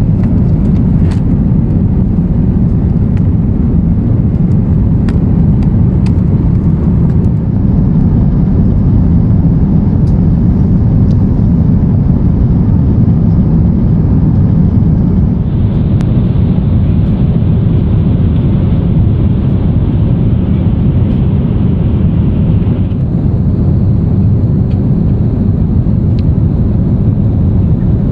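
Steady low roar inside the cabin of an Airbus A350-900 in flight: noise from its Rolls-Royce Trent XWB engines and the airflow over the fuselage, with a few faint clicks.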